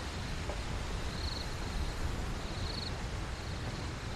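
Steady background hiss with a short, high chirping trill, like an insect's, heard twice about a second and a half apart.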